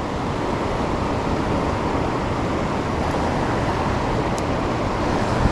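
Steady rushing of fast-flowing tailwater current below a hydroelectric dam, an even, unbroken wash of water noise.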